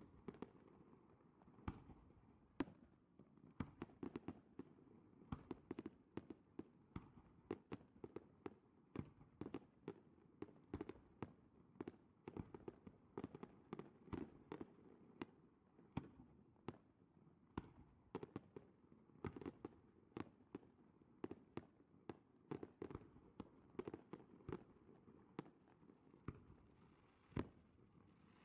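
Aerial fireworks display: a stream of irregular bangs, pops and crackles from bursting shells, at times several a second.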